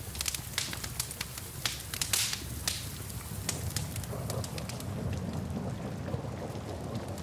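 Wood fire crackling in a fireplace, with sharp pops coming thick for the first three seconds, over steady rain. About halfway through, a low rumble swells and the crackles thin out.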